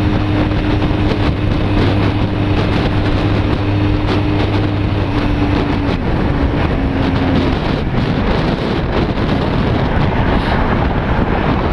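Honda CB250 Nighthawk's parallel-twin engine running at freeway speed under heavy wind noise, then dying about six seconds in, its note sagging and gone by about seven and a half seconds; after that only wind and road noise as the bike coasts. The engine has cut out from running out of fuel.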